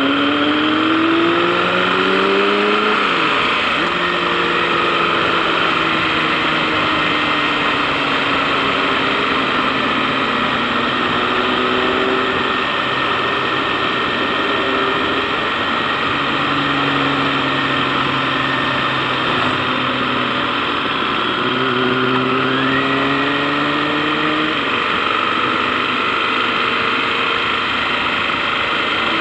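KTM 1090 Adventure's V-twin engine under way, its pitch climbing as the bike accelerates and dropping back at gear changes, over a steady rush of wind noise.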